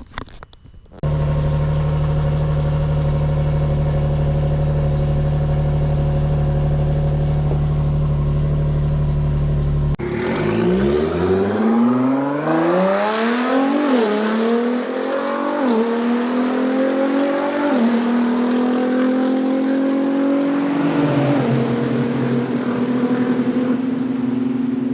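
Nissan 370Z's 3.7-litre V6 engine, first running at a steady speed, then from about ten seconds in accelerating hard through the gears: the pitch rises in each gear and drops sharply at each of four upshifts.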